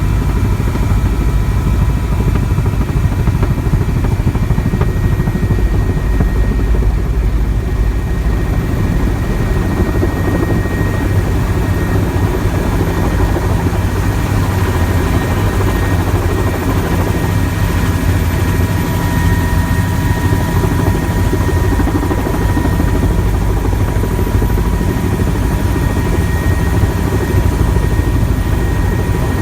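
Helicopter running steadily in flight: a deep, constant drone with a thin steady high whine over it.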